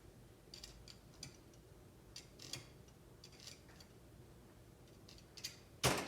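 Light metal scraping and clicking from hand-tool work, cleaning out holes in the cast parts of a metal lathe, in short irregular strokes. A single louder clunk comes near the end.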